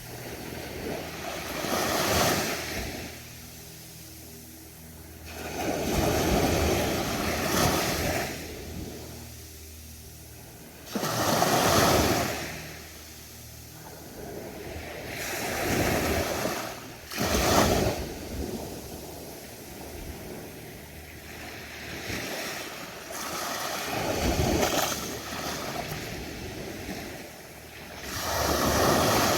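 Ocean waves breaking on a beach. The surf swells and falls back in repeated surges a few seconds apart.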